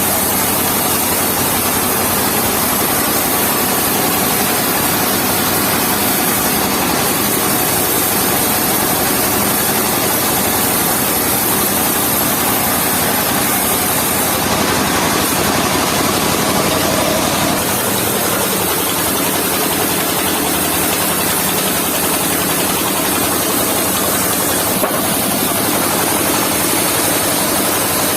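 Engine-driven mobile circular sawmill running steadily at a constant, loud level.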